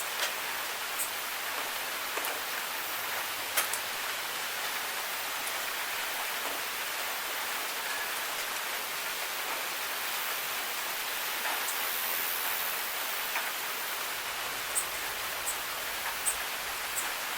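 Steady rain falling as an even hiss, with scattered sharp drops ticking on a surface, a little more often near the end.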